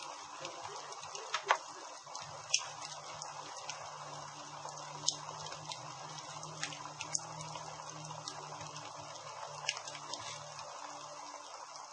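Campfire crackling: irregular sharp pops and snaps over a steady hiss, the loudest pops about a second and a half and two and a half seconds in.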